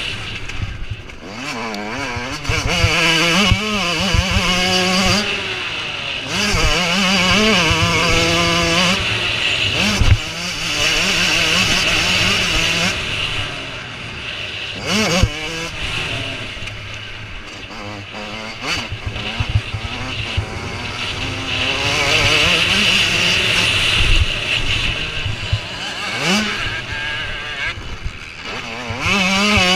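Motocross bikes racing, their engines revving up and down repeatedly as riders work the throttle through the course, with a few sharp knocks.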